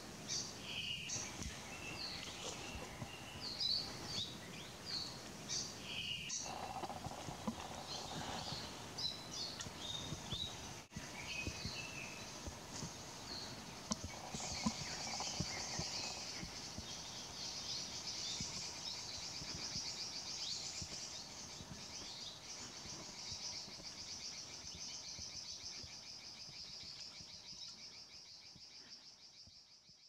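Small forest birds calling: many short, high chirps and whistled notes. From about halfway through, a long, continuous high trill with a fast pulse carries on until it fades out near the end.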